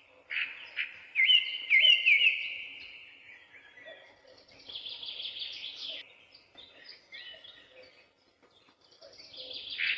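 Birds chirping in bursts of quick, high, repeated notes, with a short lull shortly before the end.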